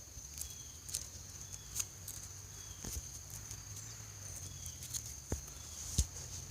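Quiet woodland ambience: a steady high-pitched insect drone with a faint low hum underneath, and scattered light clicks and rustles close by.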